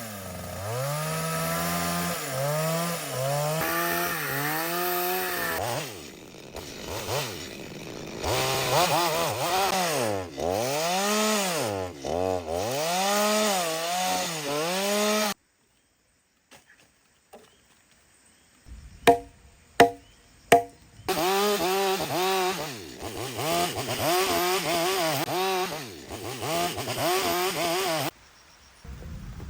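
Two-stroke chainsaw cutting wood, its engine note rising and falling over and over as it revs and loads in the cut. It cuts out abruptly for a few seconds, there are three sharp knocks, and then the saw runs and cuts again.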